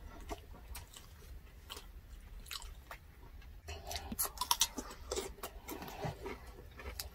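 Close-miked eating: chewing and crisp bites into a raw cucumber, with a string of short wet clicks that is busiest about four to five seconds in.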